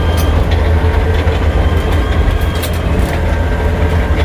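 Caterpillar D6D crawler dozer running steadily with a deep diesel rumble, the steel tracks clattering and clanking a couple of times.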